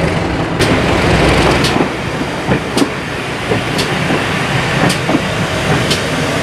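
Briefly a diesel-hauled train rumbling past, then, about half a second in, a slow-moving train headed by a GWR Hall class 4-6-0 steam locomotive: a steady rumble with a sharp click about once a second.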